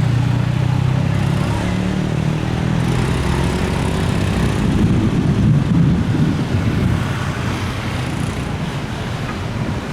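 Jet airliner taking off: a loud, low rumble with a few steady low tones that slowly fades over the last few seconds as the aircraft climbs away.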